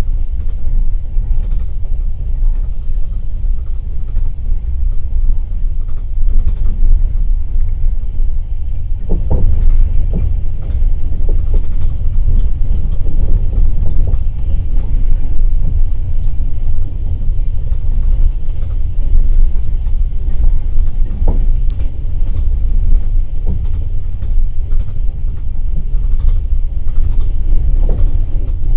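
Passenger railway coach running at speed: a steady low rumble of wheels on the track, with a few short knocks and creaks.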